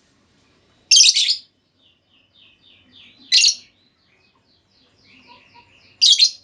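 Female lovebird calling: three loud, harsh screeching calls, each about half a second long and spaced about two and a half seconds apart, with quieter rapid chirps in between.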